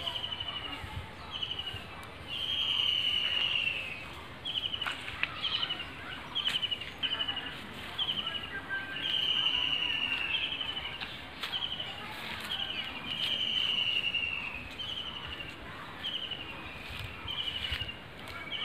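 A bird calling over and over: short, slightly falling high notes repeated about once a second, with a few longer drawn-out notes among them, over low outdoor background noise.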